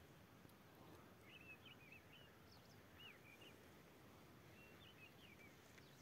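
Faint small-bird chirps in a few short, quick phrases over near-silent outdoor quiet.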